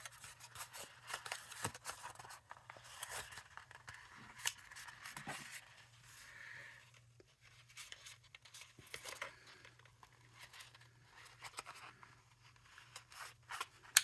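Paper card being handled and folded by hand: irregular rustling with small clicks and taps.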